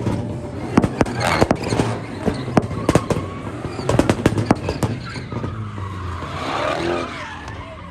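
Car engines running at a street car meet, with a rapid, irregular string of sharp pops and bangs for the first five seconds or so. This is followed by a wavering tire squeal near the end.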